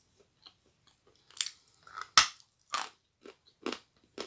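A person chewing a mouthful of Bulak chalk: a series of short, dry crunches at uneven intervals, the loudest about two seconds in.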